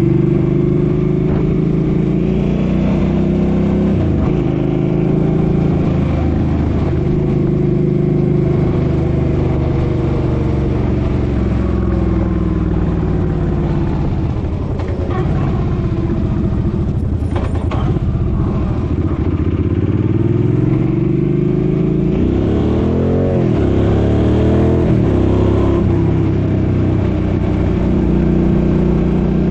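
Suzuki Boulevard M50's V-twin engine running under way, its pitch rising and falling with the throttle. Revs climb and drop several times in quick succession about three-quarters of the way in, as it is shifted through the gears.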